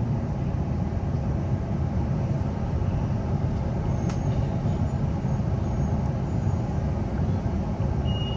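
Steady low running rumble heard inside the carriage of a Queensland Rail New Generation Rollingstock electric train as it comes into a station platform. There is a sharp click about four seconds in and a short high beep at the very end.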